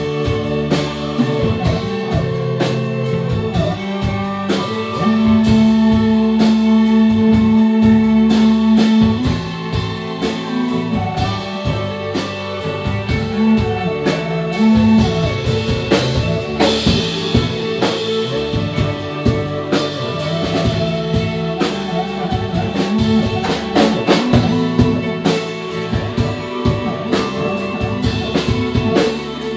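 Live band music: drums striking steadily under sustained pitched notes, with one long note held for about four seconds starting about five seconds in.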